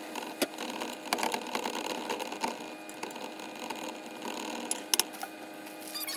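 Finely cut steak sizzling and crackling in melted butter in a pan while it is stirred, with a utensil clicking against the pan and two sharp knocks about five seconds in.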